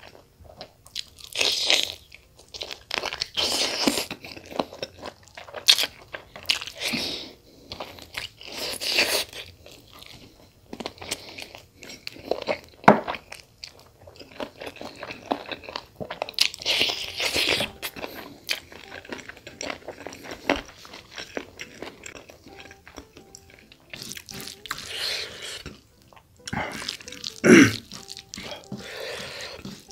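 Close-miked chewing and biting of chicken and rice: crunching and wet mouth sounds in irregular bursts, with a couple of louder crunches, one about halfway through and one near the end.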